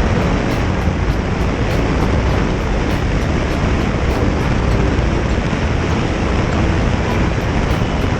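Steady wind rush over the microphone, mixed with engine and road noise from a motorcycle riding along.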